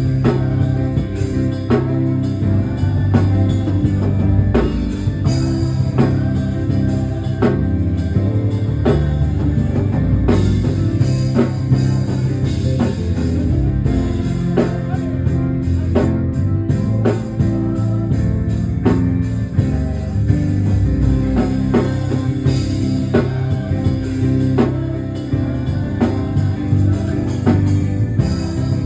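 Instrumental band music with bass guitar, electric guitar and drum kit playing a steady groove.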